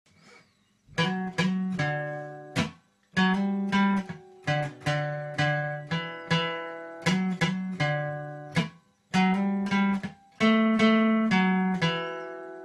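Instrumental music: chords strummed on a plucked string instrument in a steady rhythm, each strum ringing and fading, starting about a second in.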